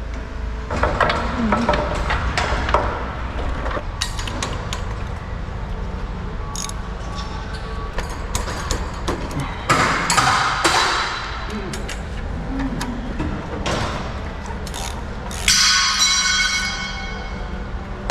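Scattered metal clanks and clicks of hand tools on garage door torsion shaft and spring hardware, over a steady low hum. A brighter, ringing metal clatter comes near the end.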